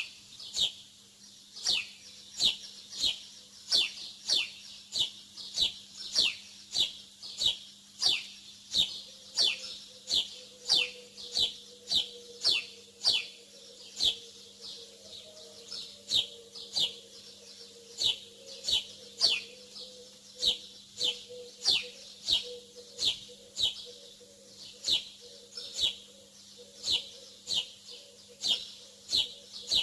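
A small bird chirping over and over, about two short, falling chirps a second at a steady pace.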